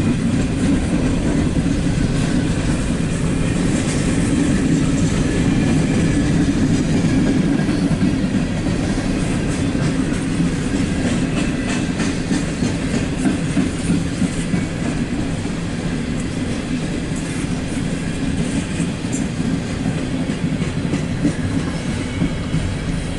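Empty coal cars of a CSX freight train rolling past: a steady rumble of wheels on rail, with clicking from wheels over rail joints that grows more uneven in the second half.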